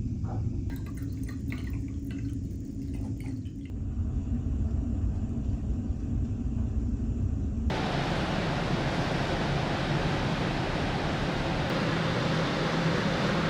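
Low, steady rumble of a large car ferry's engines, with a few faint clicks in the first few seconds. About eight seconds in it cuts suddenly to a louder, even rushing noise with a steady hum.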